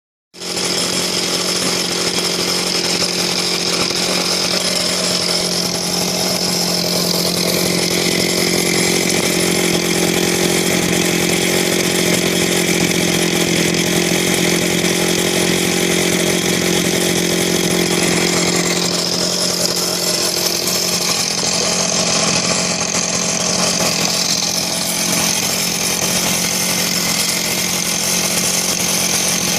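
Ultra-small engine-driven air compressor running steadily at constant speed, a continuous engine drone that starts right at the beginning. The higher overtones shift a little partway through.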